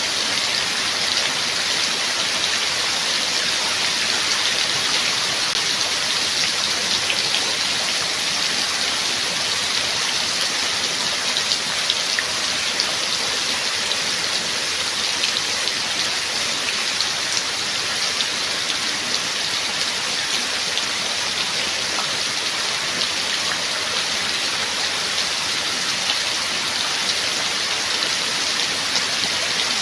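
Steady rain: an even hiss of falling rain, dotted with many small sharp ticks of individual drops striking a surface.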